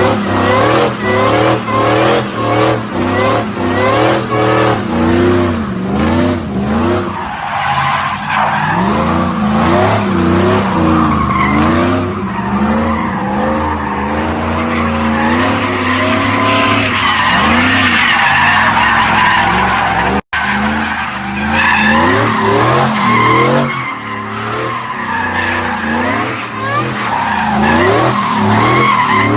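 Car engine revving up and down repeatedly with tyres squealing, as in a drift. The revs pulse about once a second at first, and a high tyre squeal builds from about twelve seconds in. A very brief break in the sound comes about two-thirds of the way through.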